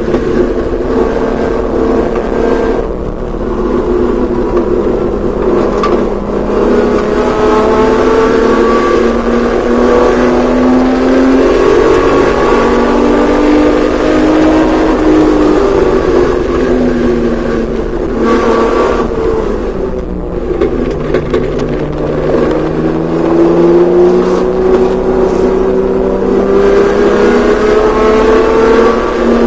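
Porsche 911SC's air-cooled flat-six engine at racing speed, its pitch climbing under acceleration and dropping back again and again, with breaks about 3, 6, 18 and 20 seconds in as the driver lifts and shifts.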